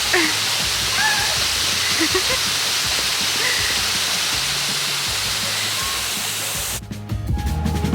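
Steady rush of water with background music under it and a few faint chirps. About seven seconds in the water noise cuts off, leaving only the music with a clear beat.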